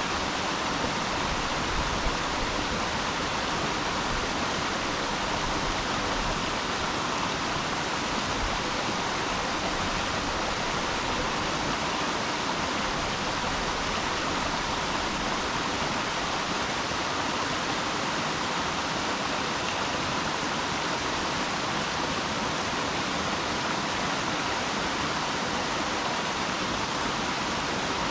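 Steady rushing of flowing water, a forest stream or small waterfall.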